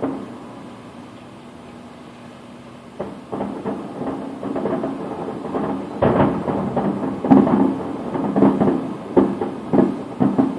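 Fireworks shells bursting in a series of booms, starting about three seconds in and coming thicker and louder from the middle on, over a steady low hum.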